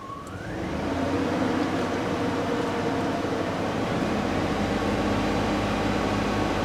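The 2004 Cadillac Escalade's swapped-in engine idling steadily, running smoothly with a split PCV hose, the cause of a vacuum leak, now replaced. The sound swells during the first second, then holds level.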